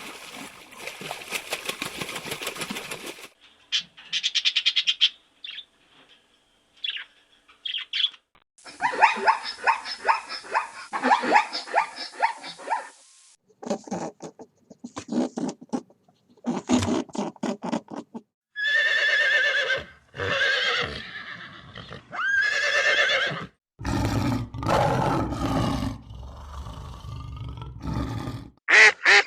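A series of different animal calls, each cut short and followed by the next: bursts of repeated pulses, pitched calls that glide up and down, and a long low rough call near the end.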